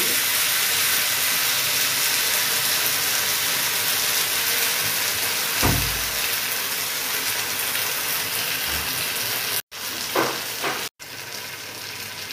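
Chili paneer frying in a pan on a gas stove: a steady sizzling hiss. A single soft knock comes about halfway through, and the sound cuts out twice for an instant near the end.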